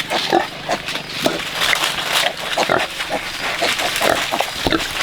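Pigs calling in many short, irregular, overlapping grunts and squeals.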